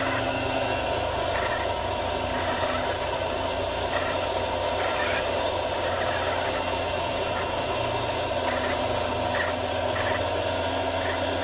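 Radio-controlled model construction machinery running: a steady, unbroken mechanical drone with fixed, unchanging pitch.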